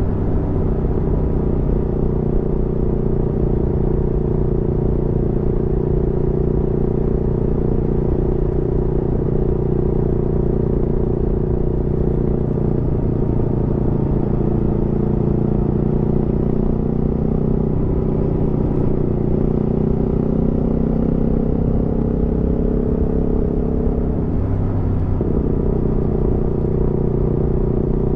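Aprilia Tuono V4 motorcycle's V4 engine running steadily at cruising speed, with a brief shift in the engine note about three-quarters of the way through.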